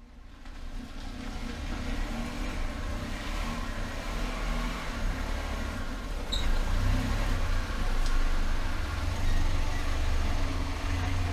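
2014 Hyundai HB20 being driven on a test drive, a steady low rumble of engine and road noise that grows a little louder over the first few seconds, with one faint click about six seconds in.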